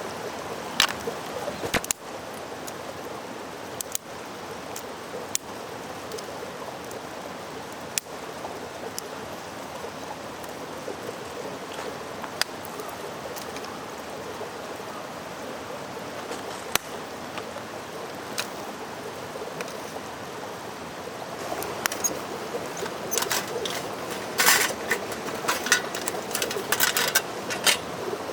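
Mountain stream flowing steadily, with scattered sharp clicks and knocks that come more often in the last few seconds.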